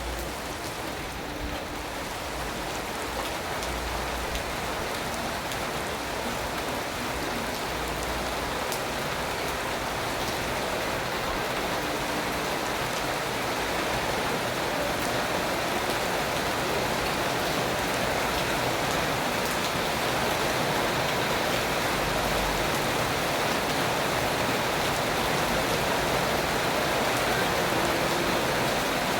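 Steady rain falling: an even hiss of drops that grows gradually louder over the stretch.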